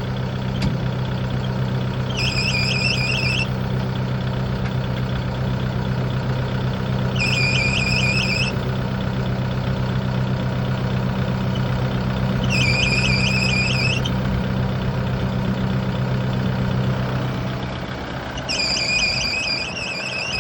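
Kubota broom tractor's engine running with a drive belt or pulley squealing in four short, warbling bursts about five seconds apart, the squeal starting and stopping each time: the sign of a bad pulley, which the operator traces to the top pulley. The low engine hum drops away near the end.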